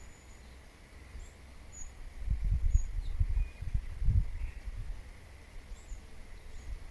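Wild birds giving scattered short, faint, high chirps over a steady outdoor background. A low rumble is the loudest thing from about two to four and a half seconds in.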